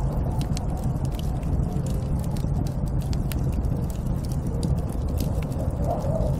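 Snowstorm wind making a steady low rumble, with sharp crackles scattered throughout.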